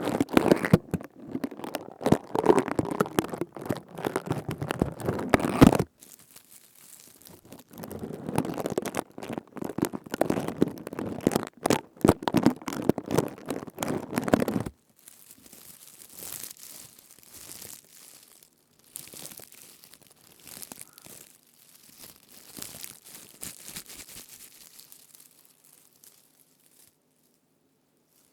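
A crown woven from leaves being rubbed and squeezed right at the microphone, giving crisp crackling and crinkling in two loud spells. After that comes lighter, softer rustling, which dies away shortly before the end.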